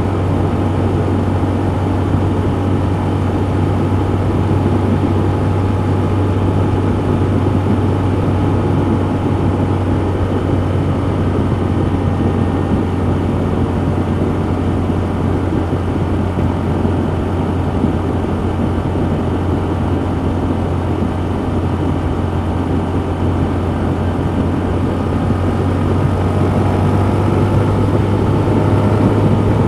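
Honda CB125F's single-cylinder engine running steadily, picked up by a mic on the bike. It gets a little louder and brighter near the end.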